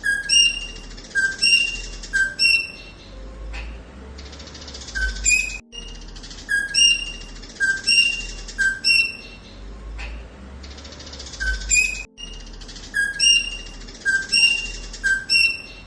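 A bird calling in short pitched chirps, each dipping slightly in pitch. They come in runs of three or four, about two a second, and the same run repeats every six seconds or so.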